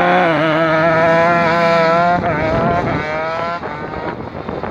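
Go-kart engine running hard at high, steady revs through the autocross course. The pitch wavers slightly, dips about two seconds in, picks up again, then fades after about three and a half seconds.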